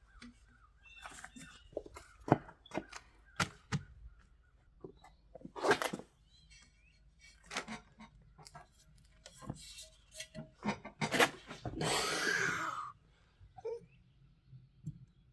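Scattered knocks and clunks as heavy aluminium truck wheels are handled and turned over, with a longer rasping noise about twelve seconds in.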